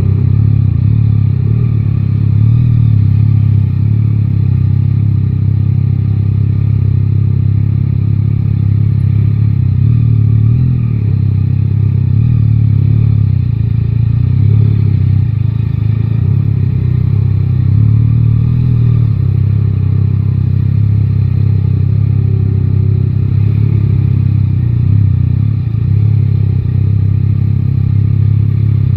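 Yamaha Tracer 9 GT's inline three-cylinder engine running under way, with a low, steady rush of wind that swells and eases a little every few seconds.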